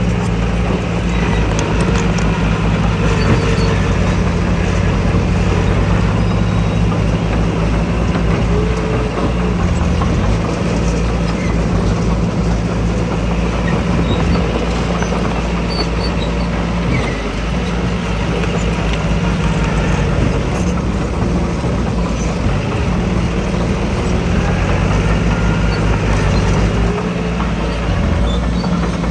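Heavy diesel engine of earthmoving machinery running steadily under load, its pitch dipping and picking up again several times as the revs change.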